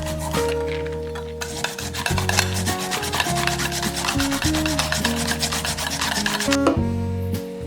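Rapid rasping strokes of food being grated on a kitchen grater, starting about a second and a half in and stopping near the end, over background music with held notes.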